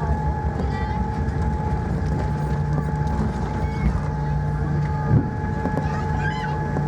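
Cabin noise of a Boeing 787-9 Dreamliner on arrival: a steady low rumble from the engines and airflow, with several steady whining tones over it. There is a faint knock about five seconds in.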